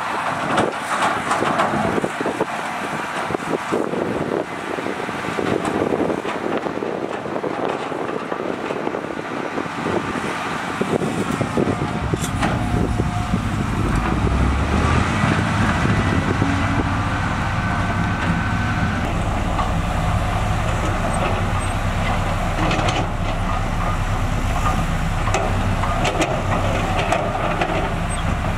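Heavy diesel construction machinery working. A clattering, rattling noise with many knocks comes first, then a deep, steady engine drone sets in about eleven seconds in.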